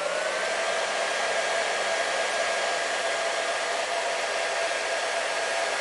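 Hair dryer running: an even rush of air with a steady motor whine. The pitch rises and settles just after the start as the motor comes up to full speed, then holds constant.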